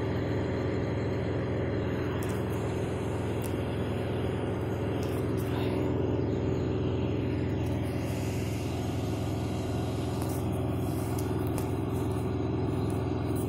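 A vehicle engine running steadily, a low even drone with no change in pitch.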